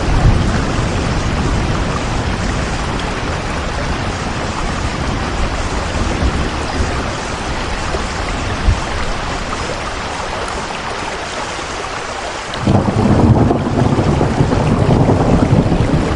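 Steady heavy rain with low rumbling of thunder. About three-quarters of the way through, a louder deep rumble comes in suddenly and carries on.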